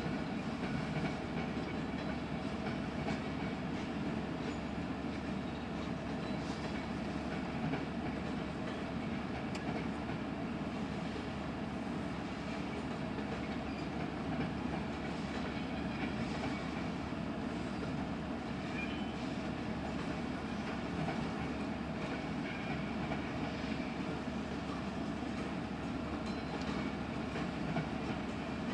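Freight train cars rolling past at a steady speed. The steel wheels rumble on the rails without a break, with occasional faint clicks.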